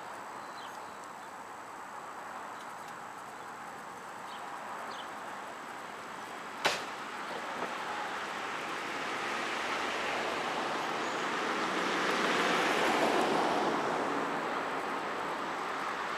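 Outdoor wood fire burning with a steady hiss and one sharp pop about halfway through. A broad rushing noise swells and then eases in the second half.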